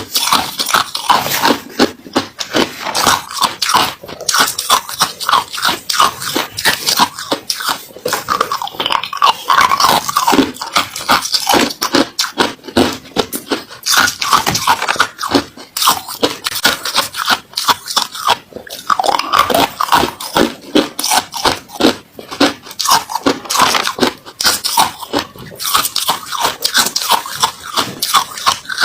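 A person biting and chewing ice: a dense, continuous run of sharp cracks and crunches.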